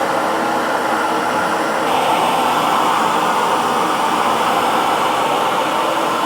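Electric hair dryer blowing steadily, a continuous whooshing hum whose tone shifts slightly about two seconds in.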